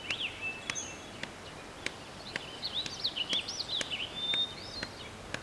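Small birds chirping in short rising and falling calls, busiest around the middle, over a steady outdoor hiss, with faint scattered clicks.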